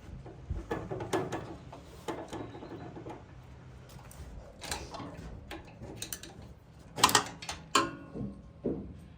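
Metal parts of a broken sawmill clutch clinking and knocking as they are worked loose from the shaft: scattered light clicks, with two sharper knocks about seven and eight seconds in.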